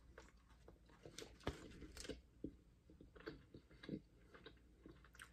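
Faint chewing of a sour gummy candy straw, heard as soft, irregular mouth clicks.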